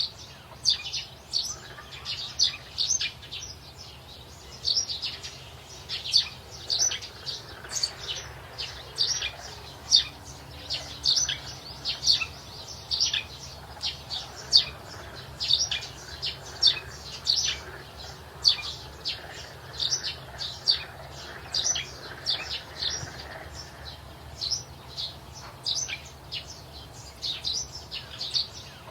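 Recorded rainforest ambience of many birds chirping: short high calls several times a second, over a low steady hum.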